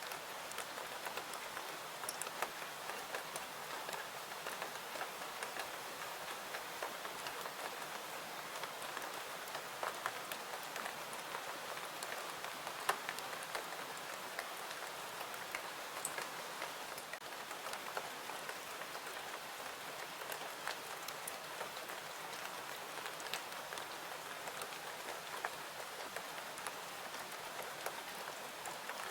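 Steady rain falling, a dense, even patter with scattered sharper drop ticks.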